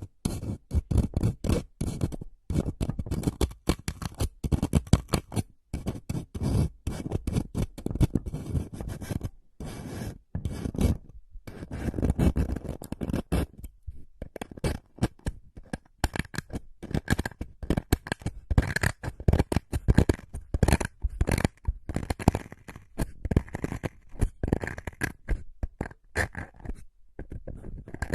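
Close-miked ASMR trigger sounds: rapid scratching and scraping strokes in quick succession, with a few short pauses.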